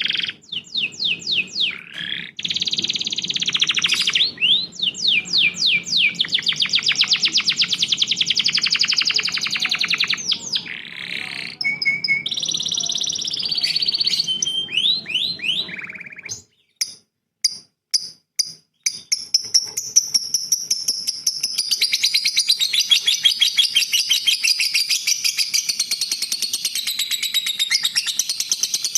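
Songbirds singing: fast trills and quick runs of repeated down-slurred whistles. After a short break about halfway, a different bird takes over with a high, continuous buzzy trill.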